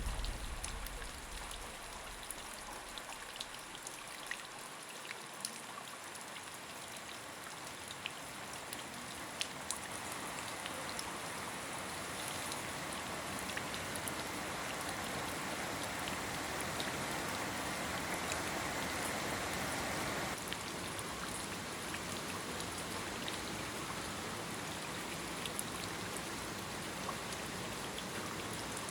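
Steady rain falling, a continuous hiss with scattered drops ticking sharply on a surface. The hiss grows louder from about ten seconds in and drops back suddenly about twenty seconds in.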